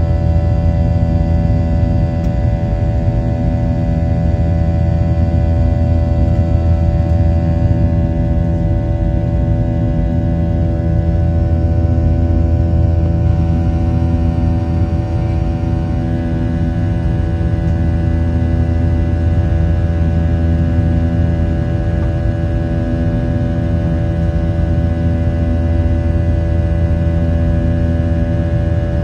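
Boeing 737-800 cabin noise: the CFM56-7B engines and airflow make a steady, loud low drone with several steady tones above it.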